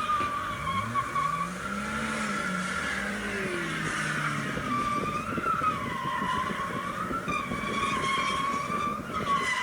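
Car tyres squealing through a long drift, the squeal wavering up and down in pitch, with the engine note rising and falling underneath in the first few seconds.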